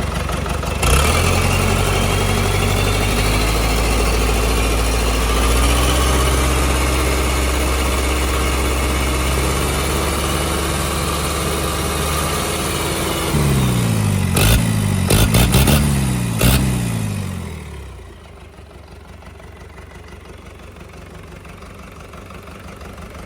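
A 4102QBZL four-cylinder turbo diesel engine running on test. It holds at high revs, then drops and picks up speed several times with a few sharp clicks. About 18 seconds in it settles to a much quieter idle, which is very quiet.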